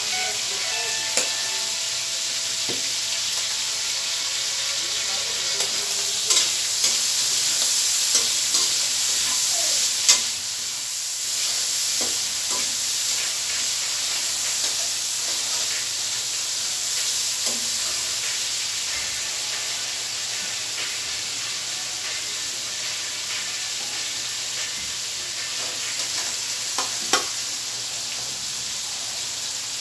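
Food sizzling and frying in a metal wok on a gas stove, a steady hiss. A spatula stirs it now and then, clicking and scraping against the pan.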